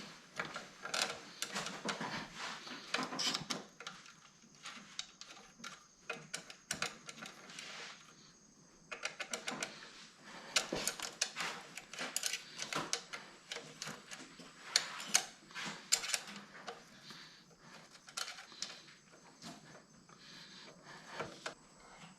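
Irregular metallic clicks and scrapes of hand tools working on the leaking carburetor fuel line fitting; the engine is off.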